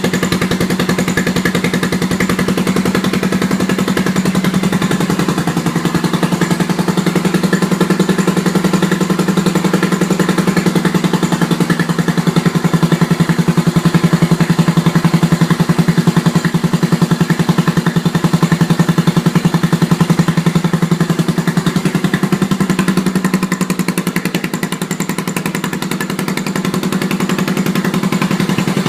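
Yamaha SR's single-cylinder four-stroke engine running steadily on its first run after being built, dipping slightly in level near the end.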